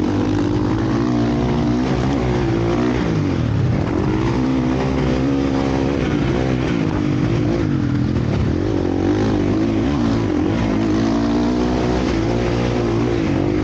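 Several motocross bikes racing on the track, their engines revving up and down continuously with overlapping, changing pitches.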